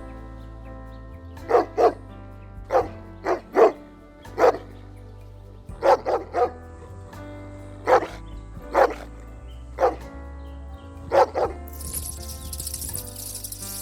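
An animal barking: about fourteen short, sharp barks, singly and in quick twos and threes, over soft background music.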